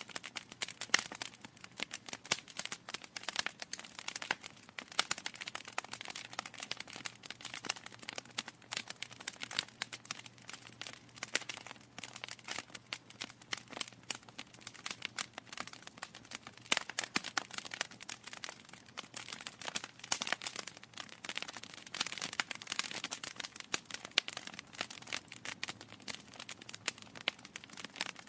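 Wood fire burning in a fireplace, with dense, irregular crackling and popping from the logs.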